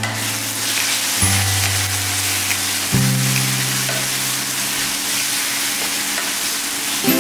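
Onion-tomato masala sizzling in hot oil in a nonstick pan as it is stirred with a spatula, with a few faint scrapes. Background music with long low notes plays under it.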